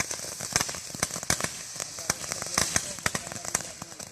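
Consumer fireworks crackling: a rapid, irregular run of sharp pops over a steady hiss, thinning out and getting quieter toward the end.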